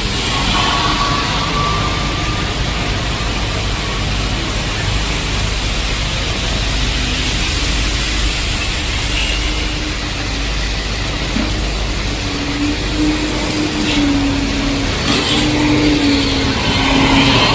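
Heavy rain pouring steadily, with a motor vehicle's engine humming close by through the second half.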